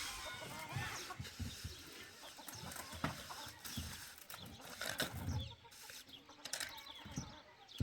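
Chickens clucking, with scattered knocks and low thumps.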